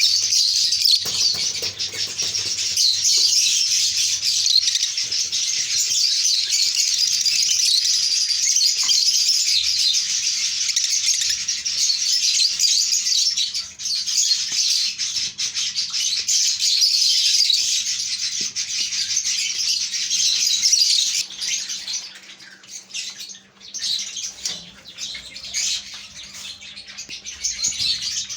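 A flock of lovebirds chattering, a dense mass of high chirps. About three-quarters of the way through, the chatter drops off suddenly, leaving sparser, quieter chirps.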